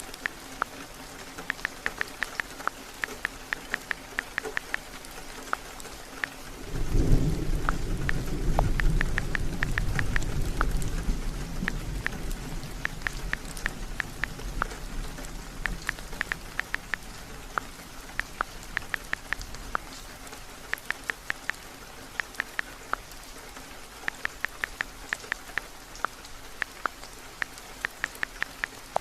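Steady heavy rain with a long thunder rumble that rolls in about seven seconds in and fades away over the next dozen seconds. Runs of quick light taps, like typing on a phone screen, come and go throughout.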